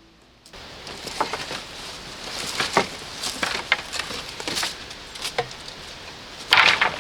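Irregular rustling and crackling, as of dry material being handled or trodden, starting about half a second in after soft music stops, with a louder, longer rustle near the end.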